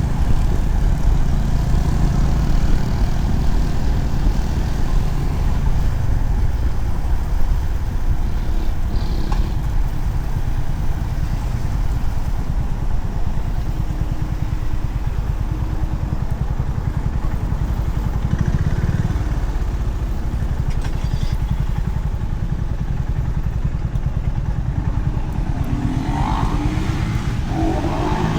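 Honda CB350RS single-cylinder engine running steadily at cruising speed under wind and road noise, rising in pitch near the end as it accelerates.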